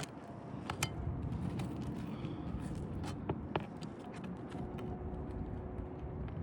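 Scattered light clicks and scrapes of a hand tool working under asphalt 3-tab shingles to pull roofing nails, over a steady low rumble.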